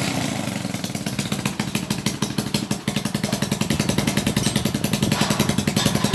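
Motorcycle engine idling steadily in rapid, even pulses after a kick start, with a slight dip about three seconds in. The exhaust puttering comes from an exhaust pipe whose mounting bolts are all broken, so the exhaust leaks.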